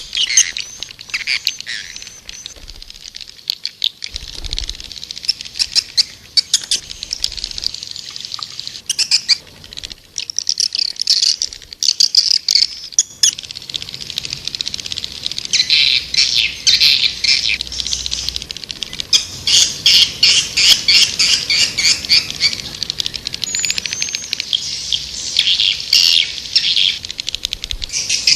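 Recorded calls of white-nest swiftlets: runs of rapid, high-pitched chirping twitter, busier in the second half. This is a swiftlet lure (calling) sound, played to draw swiftlets to a nesting house.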